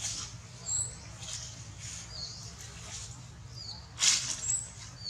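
Baby monkey crying with short, high-pitched squeaks and chirps, with louder, harsher cries about four seconds in.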